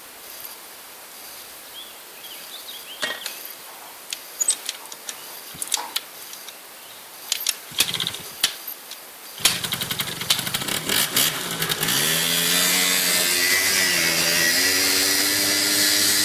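Scattered clicks and knocks, then about nine seconds in a quad bike's engine starts. Its pitch wavers for a couple of seconds before it settles into steady running.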